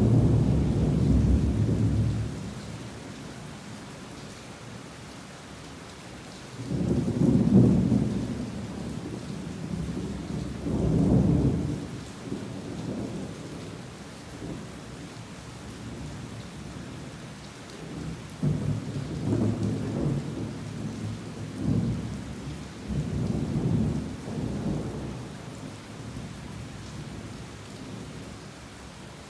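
Heavy rain falling steadily, with repeated rolls of thunder. One rumble fades away in the first couple of seconds, two more come about a quarter and a third of the way through, and a longer spell of rumbling follows in the second half.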